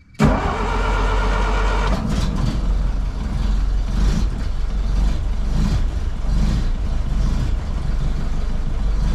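1932 Ford Model B four-cylinder engine starting cold on a rich choke setting. It catches suddenly just after the start, runs with a higher, stronger note for about two seconds, then settles into a steady idle heard from inside the car.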